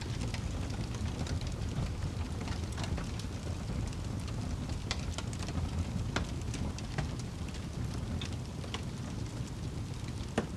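Wood campfire crackling and popping in scattered sharp snaps over a steady low rumble, with a louder pop near the end.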